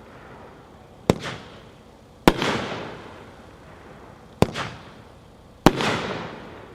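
Magnus 'Stoned to the Bone' consumer fireworks cake firing: four sharp bangs a second or two apart, each trailing off over about a second.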